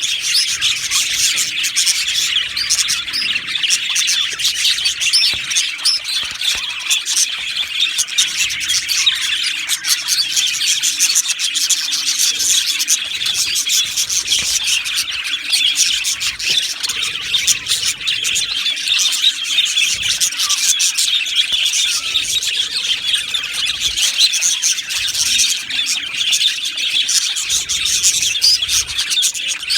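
A colony of budgerigars chattering and chirping together, many overlapping short warbles and tweets in a continuous, dense flock chatter.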